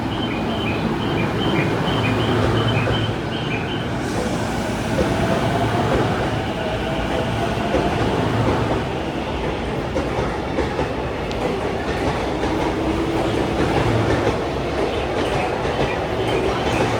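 A Rinkai 71-000 series ten-car electric train pulling out: its traction motors give a rising whine as it gathers speed over a steady rumble, with wheels clicking over the rail joints.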